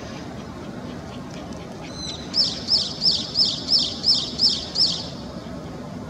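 Brown-eared bulbul calling: a short note about two seconds in, then a run of eight loud, high-pitched notes, each sliding downward, at about three a second. A steady low background rumble runs under it.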